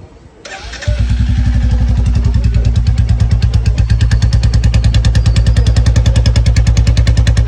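Royal Enfield Bullet 350 single-cylinder engine, fitted with a changed aftermarket silencer, started on the electric self-starter: a brief crank, then it catches about a second in and settles into a steady idle of even, regular beats, about eight a second.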